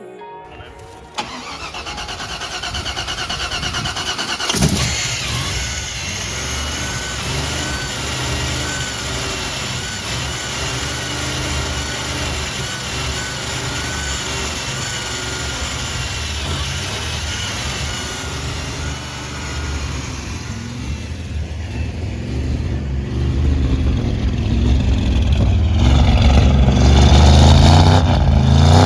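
Freshly installed crate 355 small-block Chevy V8 in a 1955 Chevrolet cranking over for a few seconds, then catching with a sharp pop and settling into a steady run. Near the end it is revved and gets louder.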